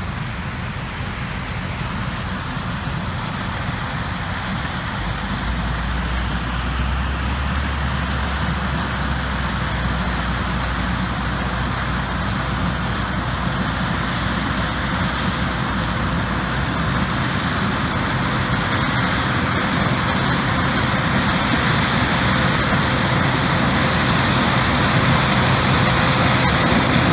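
John Deere 9570 combine running steadily while harvesting corn, a dense mechanical din with a low hum that grows gradually louder.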